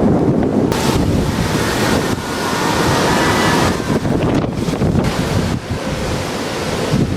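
Storm wind gusting hard with rain, swelling and easing in waves, and wind buffeting the microphone with a low rumble.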